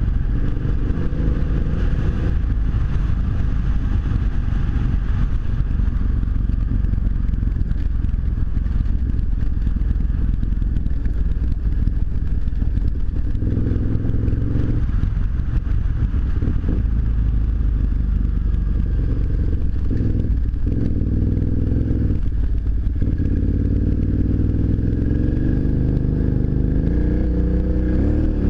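Adventure motorcycle engine running under way, over heavy low wind rumble. The engine note changes pitch several times in the middle and rises near the end as it accelerates.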